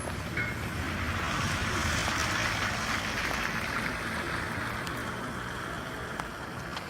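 A vehicle passing on a wet road, its tyre hiss swelling to a peak and then fading, over a low rumble.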